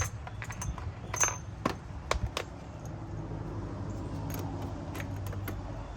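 Small metal objects clinking and jingling, a quick run of clicks with one ringing ping about a second in, then a low steady hum.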